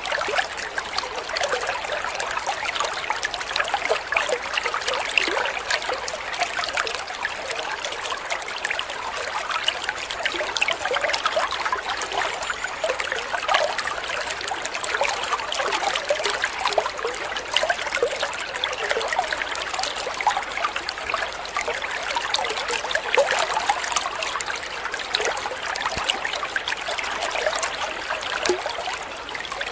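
Water trickling and babbling steadily over stones in a small stream, a dense patter of small splashes.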